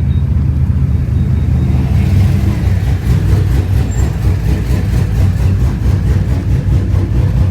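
Truck engine with a loud exhaust running with a steady deep rumble.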